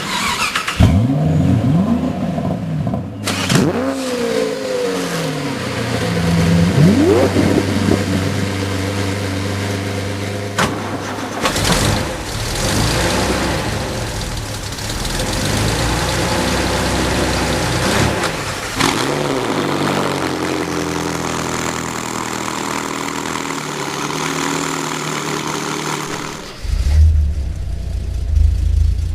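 Car engine starting, then revving again and again, its pitch rising and falling. Near the end it settles into a lower, steady running.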